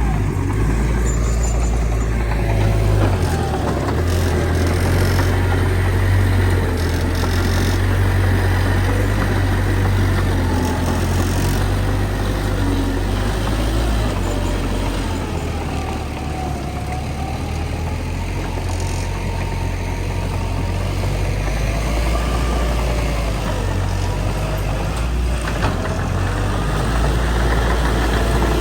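Heavy diesel engine of earthmoving machinery running steadily at a land-fill site: a deep low drone, with a fainter whine above it that rises and falls gently as the machine works.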